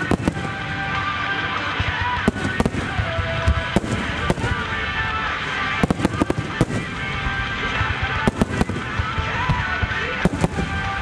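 Aerial firework shells bursting in a multi-shell finale, sharp bangs coming in quick clusters every second or two. Music plays steadily underneath.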